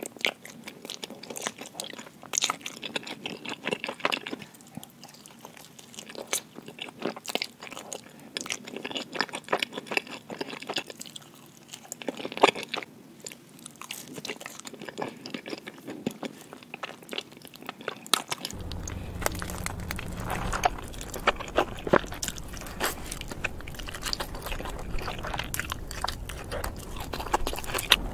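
Close-miked mouth sounds of a person biting and chewing pepperoni pizza: irregular wet smacks and crunches of the crust. About two-thirds of the way in, a steady low hum comes in under the chewing.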